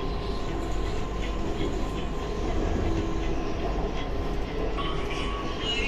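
Steady rumble of a metro train running between stations, heard from inside the carriage, with faint whining tones over it.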